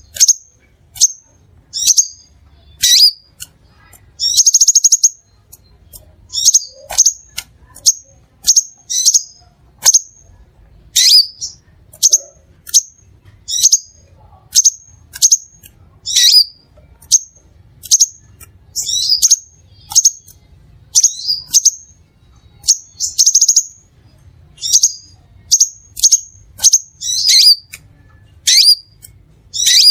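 Crimson sunbird calling: a run of sharp, high chirps about one a second, broken twice by a short buzzy trill.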